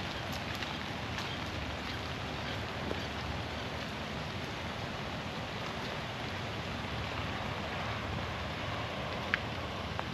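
Steady rain falling through the forest, with scattered drops ticking close by and one sharper drip about nine seconds in.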